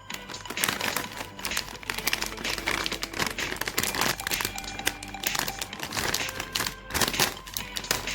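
Plastic snack wrappers crinkling as packets are handled and opened, dense and irregular, over background music.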